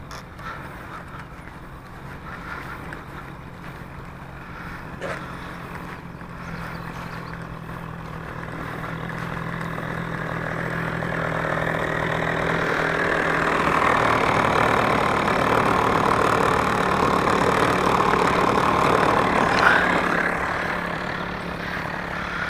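RC model plane's O.S. .46 AX two-stroke glow engine running, with a steady low hum at first, then growing louder from about eight seconds in, staying loud for several seconds and easing off near the end.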